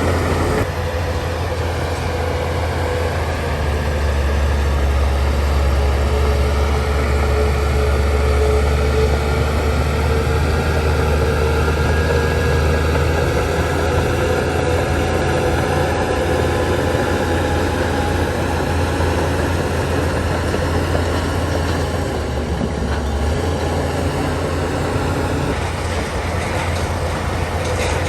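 Heavy diesel earthmoving machinery running under load: a steady, loud low engine drone whose pitch slowly rises and falls, easing off slightly in the last few seconds.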